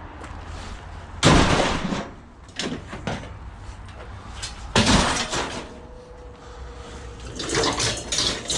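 Two loud bangs about three and a half seconds apart, each with a short clattering decay, as scrap is handled and loaded.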